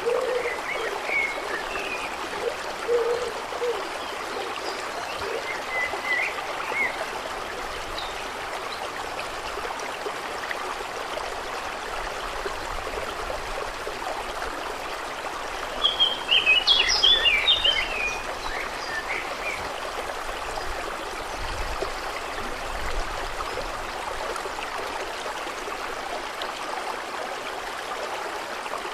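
Steady lake water trickling and lapping, with birds chirping now and then. A few low calls come near the start, and a loud burst of bird twittering comes a little past halfway.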